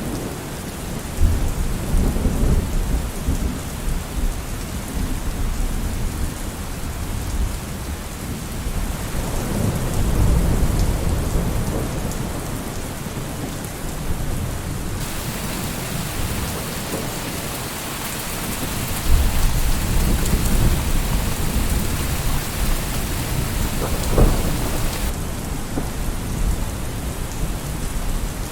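Thunderstorm: steady heavy rain with several low rolls of thunder, one with a sharper crack near the end. The rain turns louder and hissier partway through for about ten seconds, then drops back suddenly.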